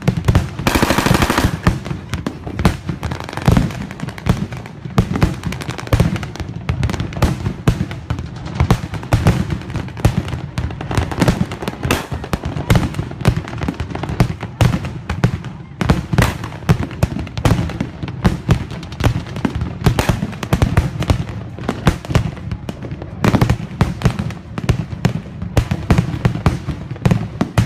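Dense, continuous crackle of rapid pops: mock gunfire in a military drill, many shots a second with no pause. There is a brighter, heavier burst about a second in.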